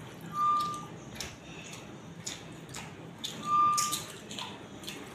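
Wet chewing and lip-smacking of a person eating gravy-soaked parotta by hand. A short, high, steady beep, about half a second long, sounds twice about three seconds apart and is the loudest thing.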